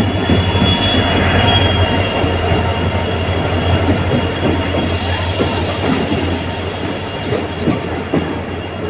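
Indian Railways passenger train moving along a station platform: a steady low rumble of wheels on the rails. A thin wheel squeal rings out in the first couple of seconds, and scattered knocks follow in the second half.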